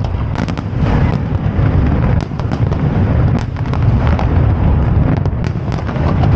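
Aerial fireworks display bursting: many sharp bangs in quick succession over a continuous low rumble.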